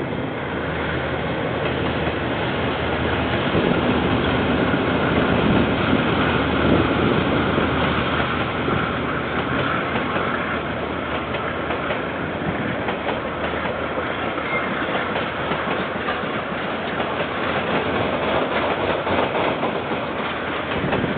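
KiwiRail train passing, its wagons running over the rails with a steady rumble that is loudest in the first half.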